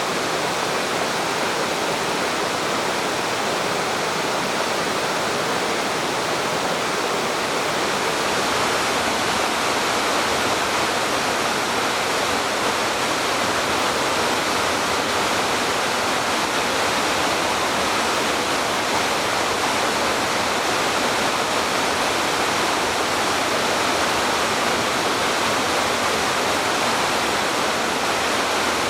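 Spring-fed mountain stream running, a steady rush of flowing water.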